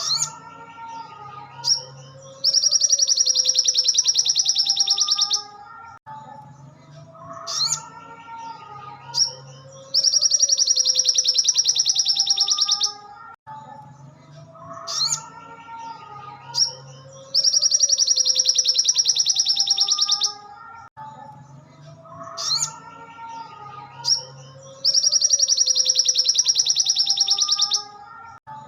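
Looped sogon (brown-throated sunbird) song used as a masteran tutor track: a few quick chirps, then a loud, very rapid, high rattling trill lasting about three seconds. The same phrase repeats identically about every seven and a half seconds, four times, over a faint lower melodic backing.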